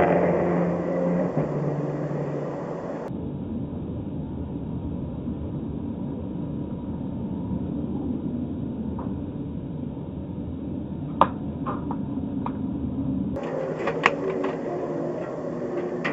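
Car engines running across a few short clips, with a steady low rumble through the middle section. A few sharp clicks or knocks come about 11 and 14 seconds in.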